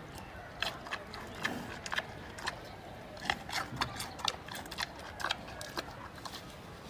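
Giant panda chewing bamboo: a run of irregular crisp cracks and crunches as the stalks split between its teeth.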